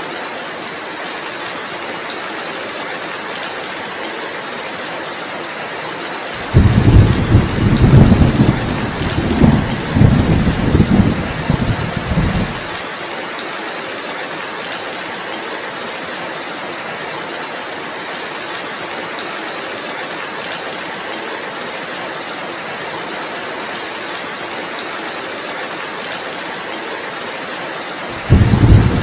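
Steady heavy rain, with a low rumble of thunder rolling for about six seconds starting about a quarter of the way in, and another rumble beginning right at the end.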